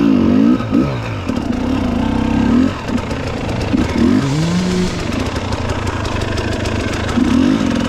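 Dirt bike engine revving hard, its pitch rising and falling as the throttle is opened and closed, with a second engine note climbing about four seconds in.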